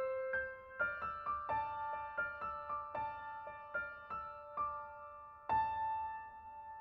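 Background music: a gentle piano playing a slow run of single notes that ring and fade. A fuller note is struck about five and a half seconds in and left to sustain.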